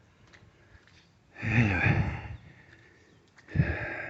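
A man's voice: one spoken word about a second and a half in, then a short, sharp breathy sound like a sniff or gasp near the end.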